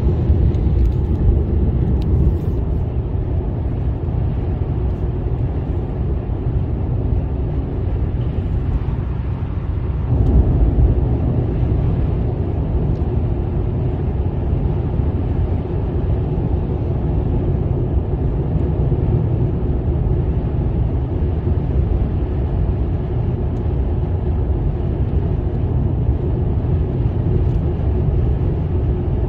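Steady low road and engine drone of a moving vehicle, heard from inside, growing slightly louder about ten seconds in.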